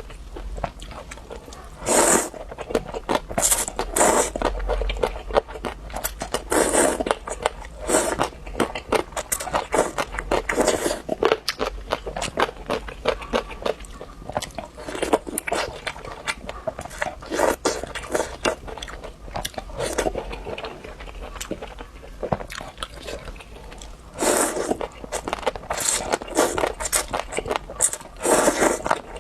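A person biting into and chewing crispy fried food close to the microphone: a louder crunch every few seconds, with continuous crackly chewing in between.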